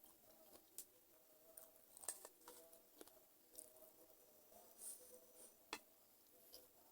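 Faint mouth sounds of eating chicken feet: scattered wet clicks and smacks from chewing and sucking at the skin and bones, the sharpest about two seconds in and again near six seconds.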